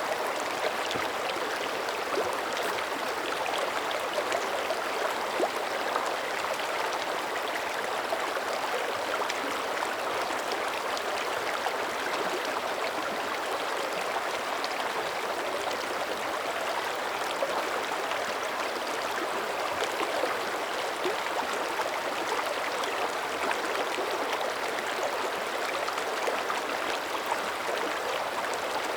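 A mountain creek running over rocks: a steady rush of water, flecked with many small splashes.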